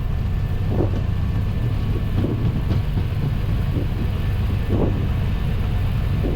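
Airbus A320 on its takeoff roll above 100 knots, heard from the cockpit: a steady low rumble of the engines at takeoff thrust and the wheels running on the runway.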